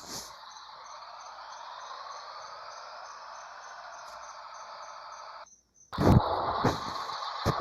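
A steady high, insect-like hiss for about five seconds, then a brief drop to silence. About six seconds in, a Scania 111 truck starts up loudly, rough and full of sharp knocks and bursts of air.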